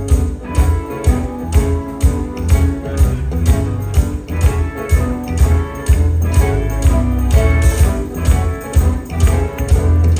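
Live gospel band playing an instrumental stretch with a steady beat: drums and heavy bass, with guitar and a jingling tambourine over them.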